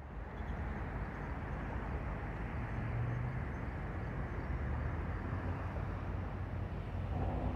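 Distant diesel-hauled double-stack freight train: a steady low rumble of the locomotives with a hum near 100 Hz and an even background hiss.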